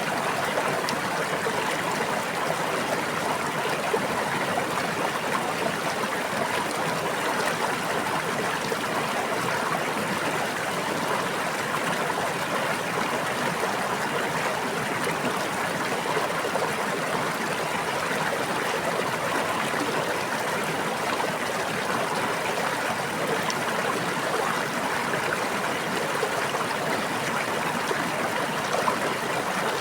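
Water in a small stream or brook running steadily over stones, an even rushing and babbling.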